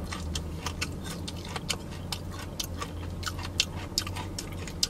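Close-up chewing of crispy fried chicken, the crust crunching and crackling in irregular sharp snaps several times a second, over a steady low hum.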